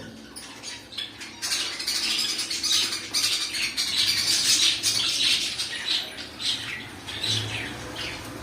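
Cockatiels chirping and squawking: a loud, dense flurry from about a second and a half to five and a half seconds in, then separate short falling calls.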